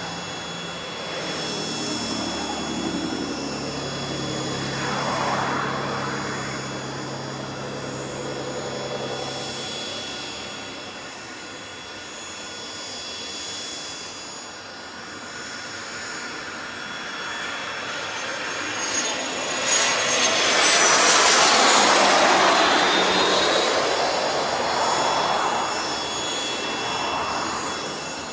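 Cessna 750 Citation X business jet's twin turbofan engines: steady high-pitched whines, then a loud rush of jet noise that swells about twenty seconds in, with a whine falling in pitch, and fades toward the end.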